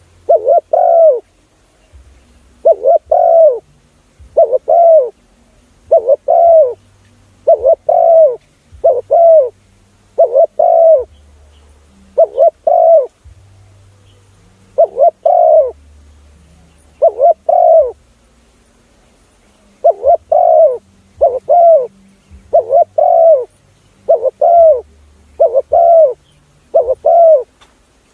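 Spotted dove cooing: loud phrases of two or three hooting coos repeated about every two seconds. It is a call recording used as a decoy to lure spotted doves.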